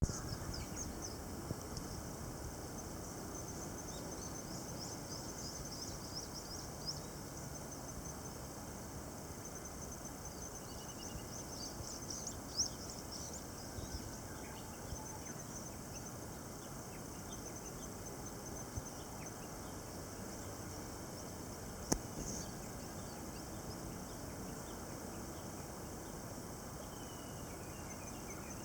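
Steady rushing noise of ocean swell breaking on the shore, with high insect chirping over it and a single sharp click about 22 seconds in.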